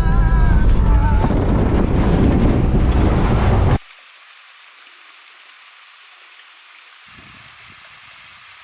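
Toyota Prado 120 four-wheel drive rumbling along a rough track, heard from inside the cabin, with a song playing on the stereo for the first second or so. About four seconds in, the sound cuts off suddenly to a faint, steady hiss of water falling at a spring-fed waterfall.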